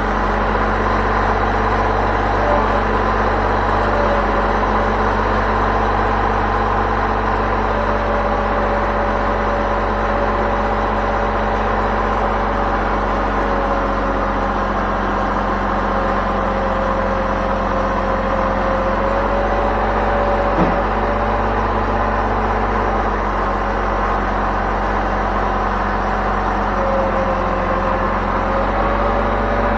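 An engine running steadily at a constant speed, with a brief knock about twenty seconds in.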